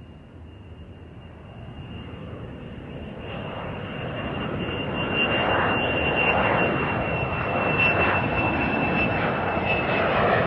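Airliner jet engines running, growing steadily louder over the first half and then holding, with a rushing noise and a thin high whine that sinks slightly in pitch.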